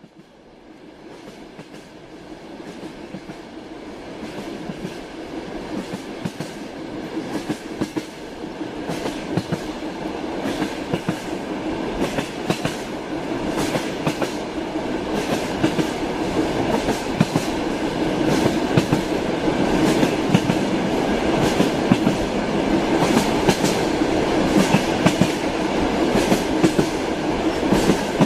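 Train wheels clattering over rail joints with a steady rumble, with frequent sharp clicks. The sound starts from silence and grows louder over the first half, then holds steady.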